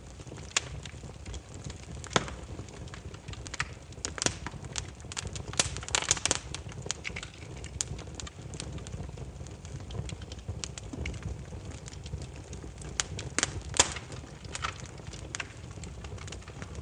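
Burning firewood crackling and popping at irregular intervals over a low, steady rumble of the flames. A quick run of pops comes about six seconds in, and the single sharpest pop comes a few seconds before the end.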